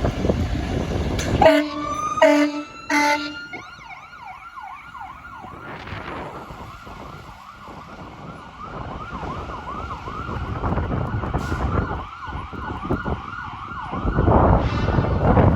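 Fire engine responding: three short horn blasts, then its siren cycling rapidly up and down. A loud low rumble swells near the end as the truck passes.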